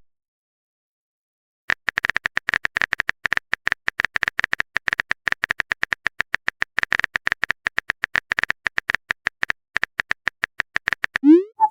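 Chat typing sound effect: a long run of short clicky blips, several a second, starting about a second and a half in. Near the end comes a short rising pop.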